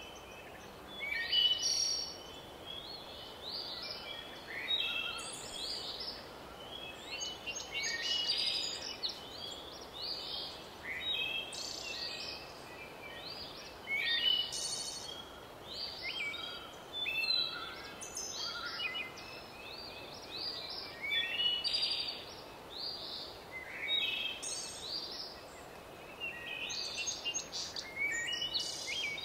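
Birds chirping and twittering: many short, high chirps and trills, often overlapping, over a faint steady hiss.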